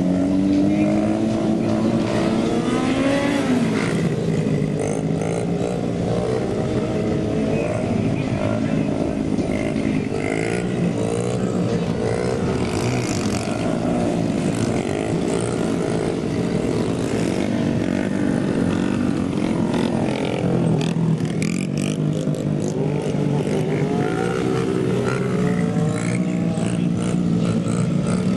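Several small mini bike engines revving up and down, their pitches rising and falling and overlapping as the bikes are ridden.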